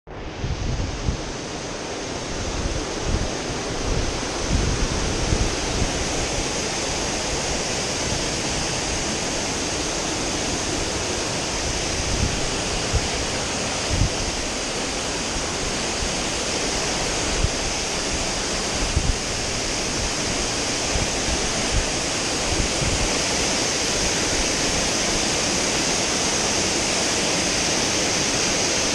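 Waterfall rushing steadily, with wind now and then buffeting the microphone in low thumps.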